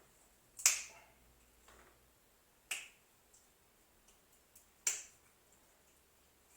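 Three sharp clicks, about two seconds apart, the first the loudest.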